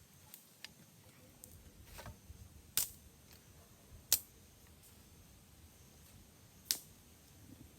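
A few sharp clicks or snaps, the three loudest about 3, 4 and 7 seconds in, with fainter ticks between them, over a faint background.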